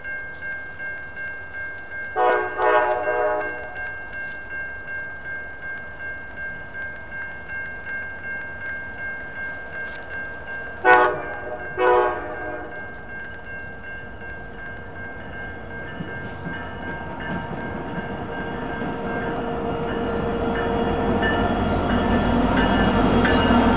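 Grade-crossing warning bell ringing steadily at about two strokes a second while a freight train's horn sounds one long blast, then two short ones. The rumble of the train's Norfolk Southern diesel locomotives grows louder from about two-thirds of the way in as they reach and pass the crossing.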